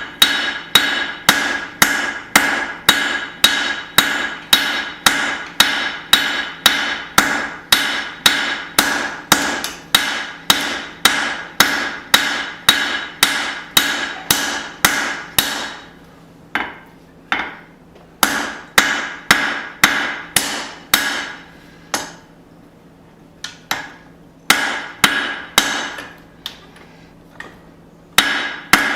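Hand hammer striking hot steel on an anvil in a steady rhythm of about two ringing blows a second, shaping a small hatchet head. About halfway through, the blows break into shorter groups with pauses between.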